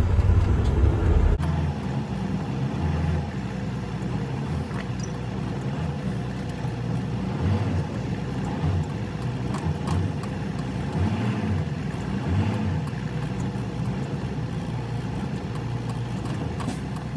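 Semi-truck diesel engine running under throttle, its low drone rising and falling unevenly, as the truck tries to pull away on ice and stays stuck. A heavier low rumble in the first second and a half cuts off abruptly.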